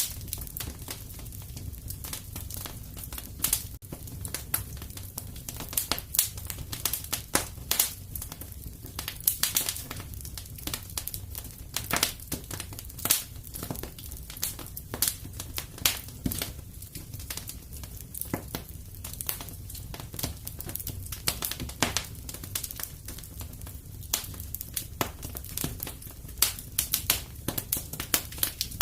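Wood fire in a fireplace crackling: a dense, irregular stream of sharp pops and snaps over a steady low rumble of the flames.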